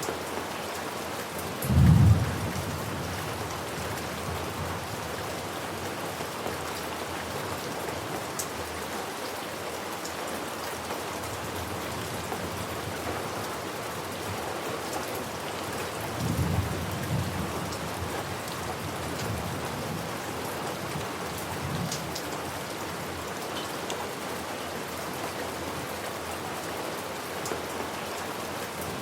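Steady rain with low rumbles of thunder. A short, loud rumble comes about two seconds in, a longer, softer one a little past halfway, and a faint one a few seconds after that.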